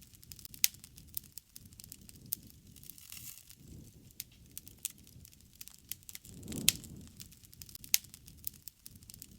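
Wood fire crackling, with irregular sharp pops and snaps, a couple of them louder about two-thirds of the way through.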